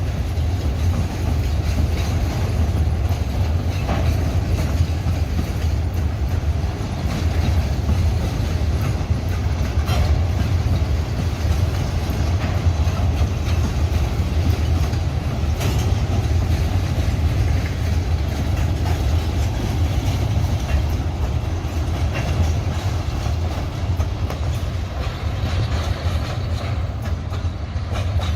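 Freight train rolling past, its wagons giving a steady low rumble with scattered clicks of wheels over the rail joints.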